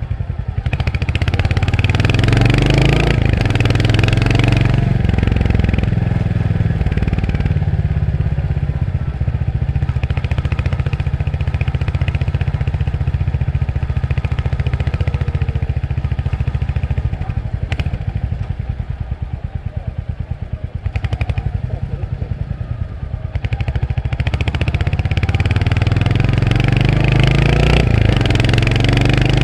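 Royal Enfield Hunter 350's single-cylinder engine running under way, its pitch rising as it accelerates in the first few seconds. It eases off with a softer, pulsing note through the middle, then rises again as it accelerates near the end.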